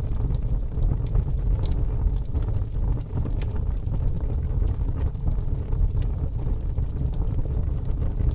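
Fire burning: a steady low rumble with scattered sharp crackles throughout.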